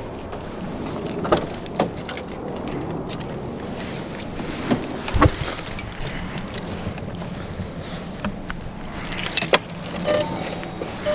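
Keys jangling amid scattered clicks and knocks of handling, with one heavy thump about five seconds in and a flurry of clicks near the end, over a low steady hum.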